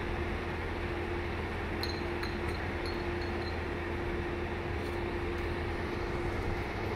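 Steady idling hum of a Metrolink commuter train standing at the platform, with a constant mid-pitched tone over a low rumble. A few faint high chirps come about two seconds in.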